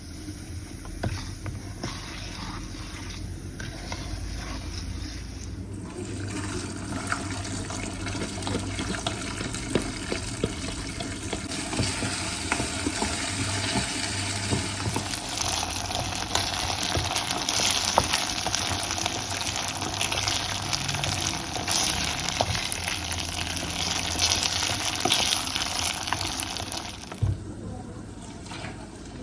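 Water running, as from a tap into a sink, with small knocks and clatters of handling. The flow changes about six seconds in, gets fuller around fifteen seconds, and stops near the end.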